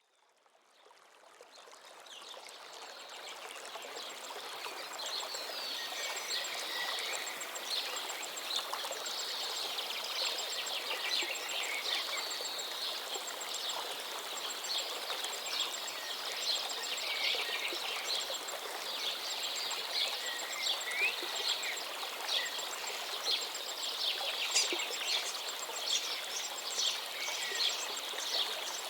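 River water flowing steadily, with many birds chirping and calling over it. The sound fades in over the first few seconds.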